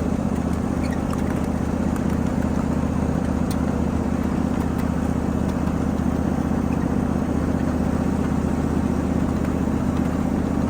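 Ride-on 7.5 inch gauge miniature freight train running, with a steady engine hum.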